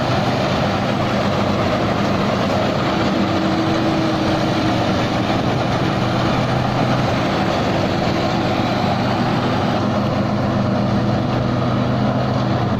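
Tai Seng rice combine harvester's diesel engine running steadily under heavy load while the machine works through deep mud.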